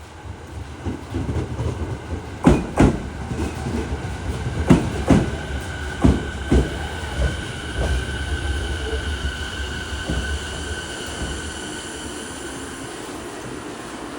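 JR East 209 series 2100 electric train pulling in over rail joints: pairs of wheel clacks that come farther apart as it slows, under a low rumble. A steady high whine sets in midway and holds as the rumble fades and the train comes to a stop.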